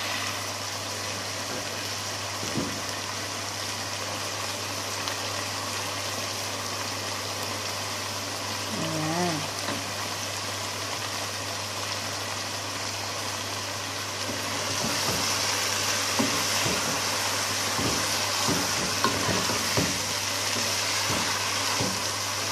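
Chicken pieces sizzling in a pot, over a steady low hum. About two-thirds of the way through, the sizzle gets louder and a wooden spoon starts stirring, with repeated short knocks and scrapes against the pot.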